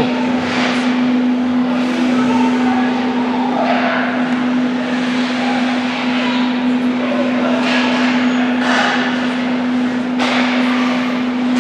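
Hockey rink sound during play: a steady hum runs throughout, broken by several short hissing scrapes of skate blades on the ice.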